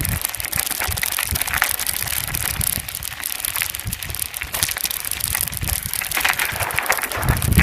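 Bicycle tyres rolling over a dirt road, a continuous crunching crackle of grit and small stones under the wheels. Low rumbling buffets come in near the end.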